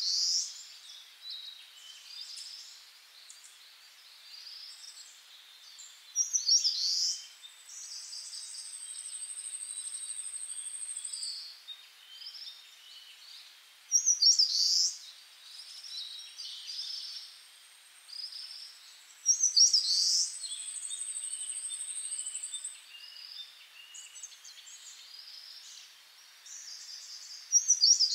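Birds chirping: bursts of chirps every few seconds, with a long, very high, steady trill running between them.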